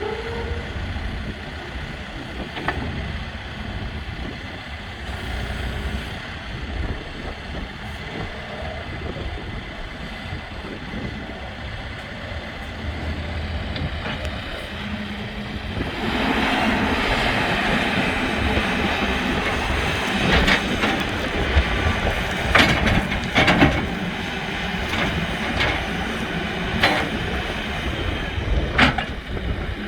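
Case 580N backhoe's diesel engine running steadily, growing louder about halfway through, with several sharp knocks in the second half.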